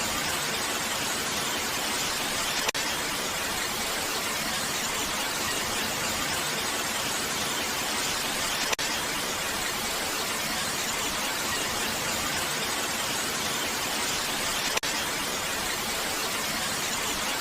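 Steady, even hiss of rain, broken by three brief sharp clicks about six seconds apart.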